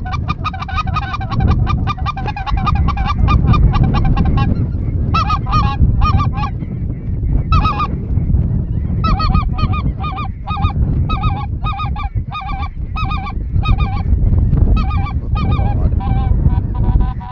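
A flock of geese calling: rapid, overlapping honking calls, steady for the first few seconds and then coming in bunches, over a steady low rumble.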